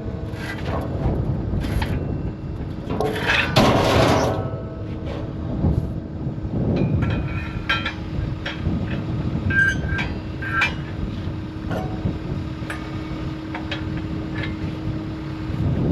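Metal clinking and clanking from fence tear-out work, with short ringing clinks between about seven and eleven seconds in. Underneath is a low, steady rumble, with a steady hum from about six seconds in.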